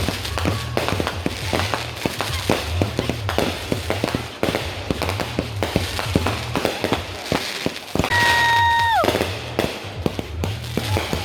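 Fireworks going off, a rapid series of pops and crackles, with a loud steady whistle about eight seconds in that drops in pitch as it cuts off. Music with a bass line plays underneath.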